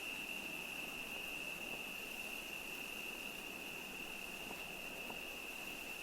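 A cricket's continuous high trill, steady and unbroken, over a faint background hiss.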